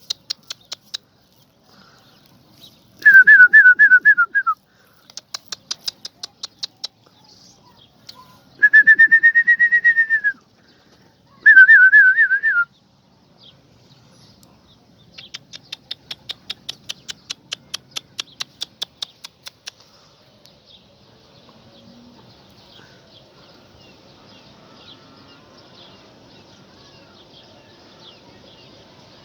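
Three loud, clear whistled notes, the first and last warbling quickly and the middle one smooth, with bursts of rapid high clicking between them. Only faint chirps and rustling follow.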